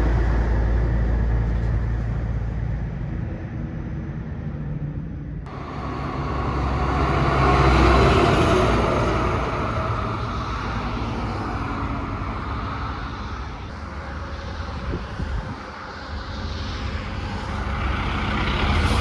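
Road traffic with trucks passing: steady low engine running at first, then a sudden change to a truck's engine and tyre noise swelling as it goes by about eight seconds in, with another vehicle approaching near the end.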